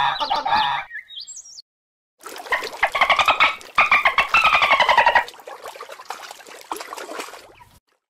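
Dolphin squeaking and chattering: about three seconds of rapid pulsed squeaks that slide down in pitch, after a short wavering squawk-like call in the first second.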